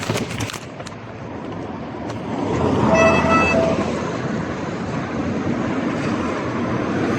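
A vehicle horn gives a short toot about three seconds in: one steady note with a brief break in it. Underneath is steady traffic and road noise that swells as a vehicle passes, with a few sharp clicks at the very start.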